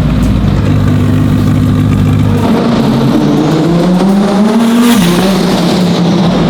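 A high-performance car engine runs at a steady low note, then about two and a half seconds in it accelerates hard, its pitch climbing steadily before dropping about five seconds in.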